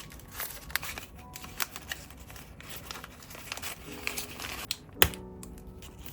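Close handling sounds: scattered light taps and rustling, with one sharp click about five seconds in.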